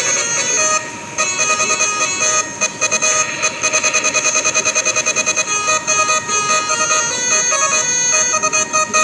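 Indonesian bus's multi-tone 'telolet' air horn playing a tune: several horn notes held together and changing in steps, with a fast stuttering run of short toots in the middle.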